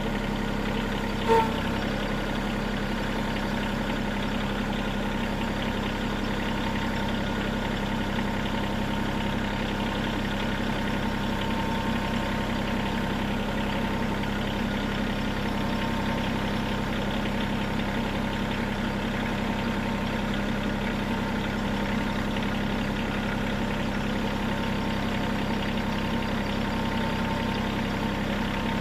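Bad Boy compact tractor's engine running steadily at a constant speed, with one short, louder sound about a second in.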